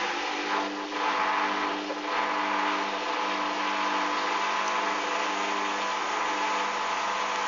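Hoover Dynamic washing machine on its final spin, its motor and drum running with a steady whine and rushing noise that briefly dips about one and two seconds in. The load is spinning very unbalanced.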